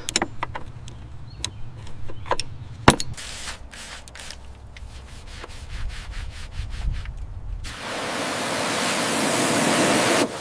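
Bodywork noise: scattered clicks and knocks over a low hum, then from about eight seconds in a steady hiss that cuts off suddenly just before the end.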